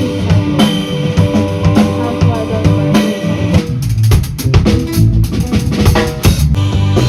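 Live band playing in rehearsal: a drum kit with kick and rimshots under guitar. The drumming grows busier and louder about three and a half seconds in.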